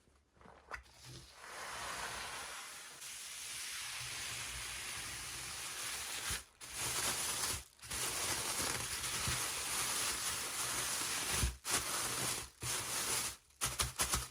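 Packaging being rustled and torn open, a steady crinkling hiss broken by several short pauses and turning choppy near the end.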